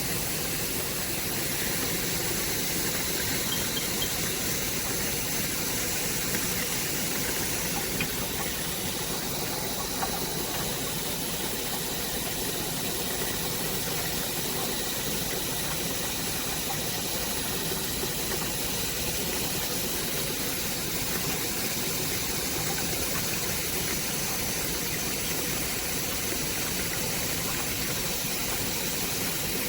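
Small portable mini washing machine running a cycle: a steady motor hum with an even hiss.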